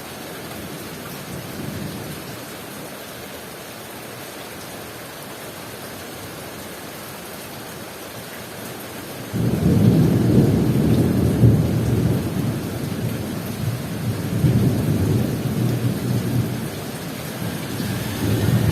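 Heavy rain, a steady hiss. About nine seconds in, thunder breaks in suddenly and goes on as a loud low rumble, rising and falling.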